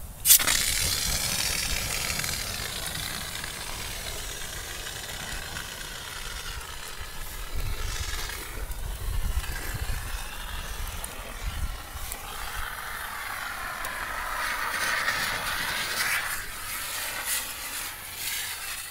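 A large fire extinguisher spraying onto a burning lawnmower: a sudden loud burst of hissing as it opens, then a continuous hiss that rises and falls for many seconds.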